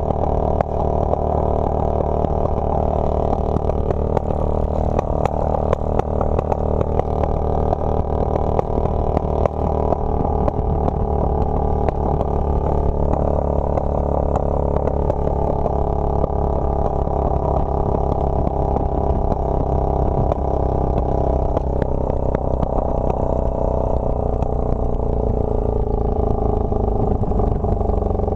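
Motorcycle engine running steadily while riding, its note easing down near the end.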